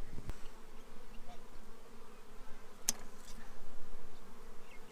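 Honeybees buzzing at an opened hive during inspection, a steady droning hum. A sharp click sounds about three seconds in.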